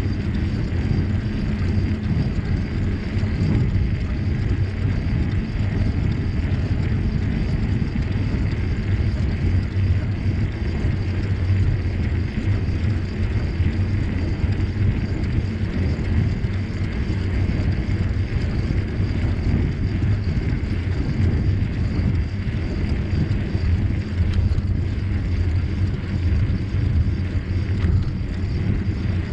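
Steady rumbling wind and rolling noise from a bicycle in motion, buffeting the microphone without a break.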